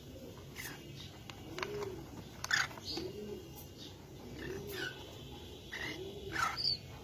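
Domestic pigeon cooing, a low rising-and-falling coo repeated about every second and a half, with short high chirps in between.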